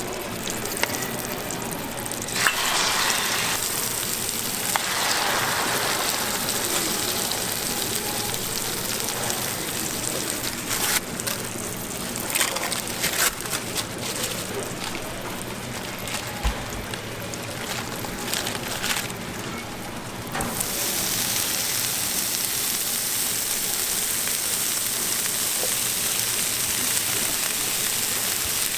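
Food frying on a hot griddle, sizzling, with scattered clicks and taps of cooking utensils; about twenty seconds in the sizzle turns steadier and louder.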